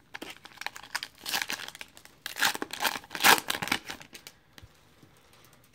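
A trading-card pack wrapper being torn open and crinkled in bursts, loudest about two to three seconds in, then going quiet near the end.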